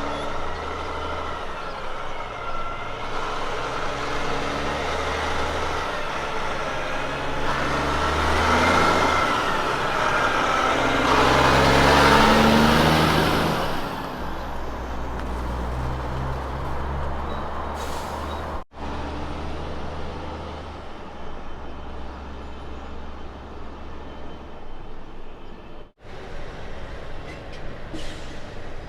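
Heavy diesel road train trucks running, with the engine note swelling to a loud peak about twelve seconds in as one passes close. The sound cuts off abruptly twice, splitting it into separate truck scenes.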